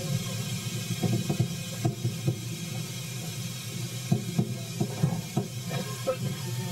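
Moving passenger train heard from inside a carriage: a steady low rumble and hiss with irregular knocks and clunks.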